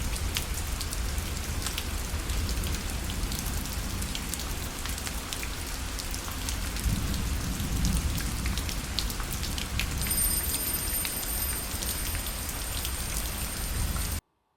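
Rain falling on a parasol, a steady hiss with many scattered sharp drop hits. A faint high steady tone joins about ten seconds in, and the rain cuts off abruptly near the end.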